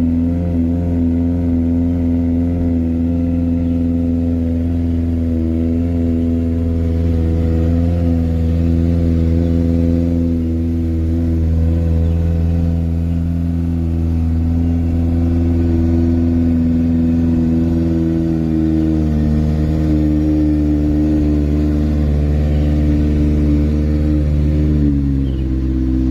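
Kawasaki ZX-6R's inline-four engine idling steadily after a cold start, its idle speed dropping lower about a second before the end.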